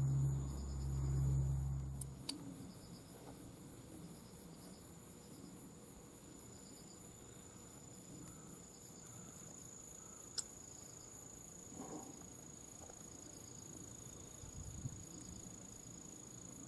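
Crickets chirping faintly in an even rhythm. A low hum stops with a click about two seconds in, and there is a single sharp tick later on.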